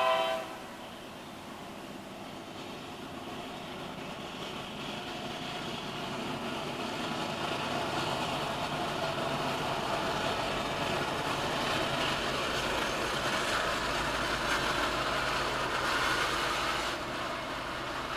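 Norfolk Southern train on the move: a horn blast cuts off just as it begins, then the noise of the locomotives and wheels on the rails grows steadily louder, easing off a little near the end.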